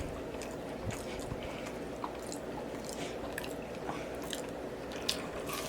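A man chewing food close to the microphone, with scattered wet mouth clicks and small smacks.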